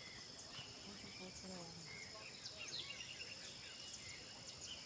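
Faint open-air ambience: many short chirping bird calls over a steady high-pitched insect drone.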